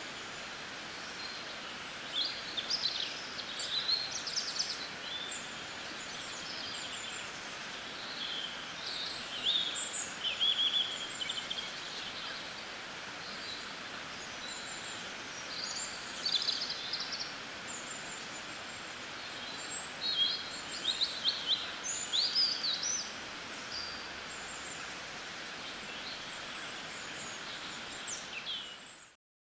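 Birds chirping and trilling in short calls over a steady background hiss, the sound cutting off abruptly near the end.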